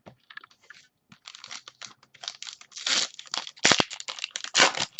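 Plastic crinkling and rustling in irregular bursts as trading cards are handled, with a few louder crackles in the second half.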